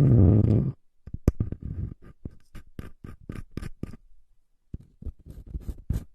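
A loud low rumble for the first moment, then a run of quick, close-miked scratches and taps, with a pause of about a second after the fourth second.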